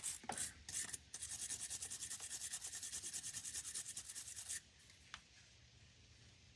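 Wire brush scrubbing a bolt clean in quick, even back-and-forth strokes, about eight or nine a second, then stopping about four and a half seconds in; the bolt is being cleaned of dirt for a bare-metal ground connection.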